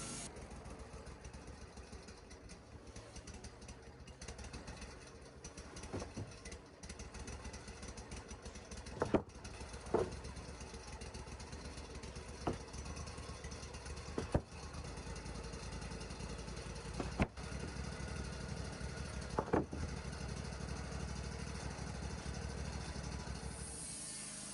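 A sawmill's engine running steadily, with about seven sharp knocks a second or few apart.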